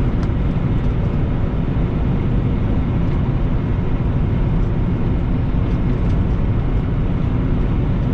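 Semi-truck engine and road noise while driving at a steady speed: an even, unbroken low rumble.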